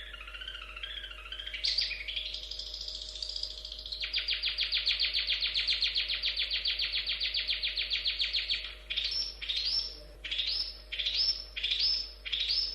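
Long-tailed shrike (cendet) singing: a wavering warble, then about four seconds in a long, rapid trill of repeated notes, followed near the end by separate short notes about twice a second.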